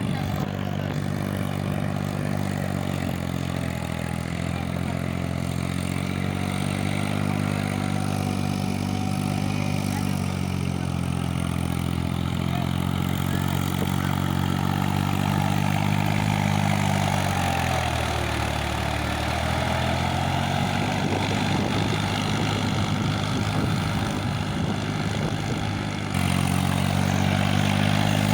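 Sonalika tractor's diesel engine running steadily. Its pitch sags about two-thirds of the way through and then picks back up. The sound jumps suddenly louder near the end.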